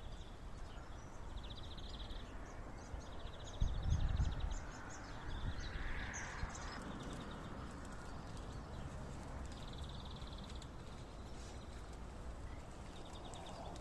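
Outdoor ambience: birds chirping, with short buzzy trills repeated every few seconds. Low wind rumble on the microphone runs under them and rises in a gust about four seconds in.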